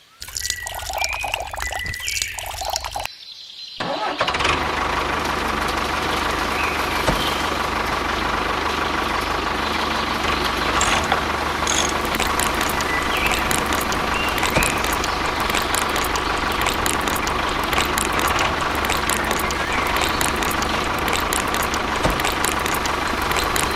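Homemade mini tractor's engine starting up about four seconds in, then running steadily with a constant whine over a low hum.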